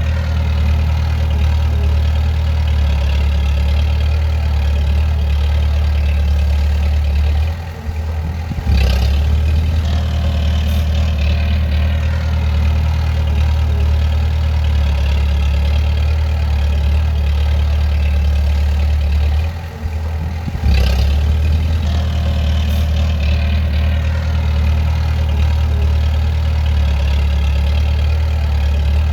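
Bulldozer's diesel engine running steadily under work. Twice, about 8 and 20 seconds in, the engine sound drops briefly and then comes back suddenly at full strength.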